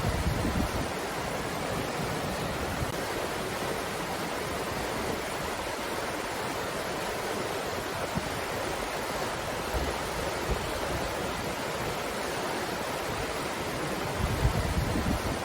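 Steady rushing of wind. Near the start and again near the end, a gust buffets the microphone with a brief low rumble.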